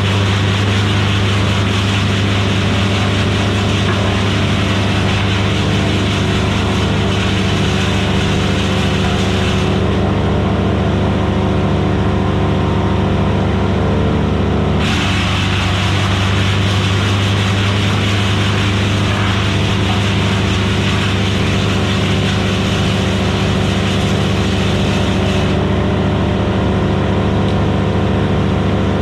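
Vermeer BC1000XL gas wood chipper running steadily under power, its engine holding one steady low pitch. The higher hiss over it drops away abruptly about a third of the way in, comes back, and drops again near the end.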